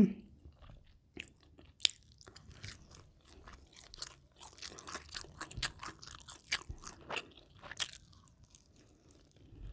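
Close-miked crunching and chewing of crisp food, a run of sharp crackles that comes thickest in the middle of the stretch.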